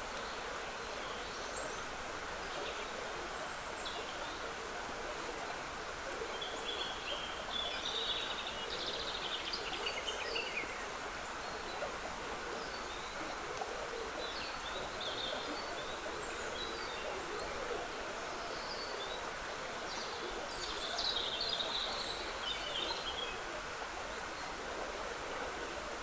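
A trickling woodland stream running steadily, with small songbirds singing short scattered phrases over it, the clearest bursts of song near the middle and again toward the end.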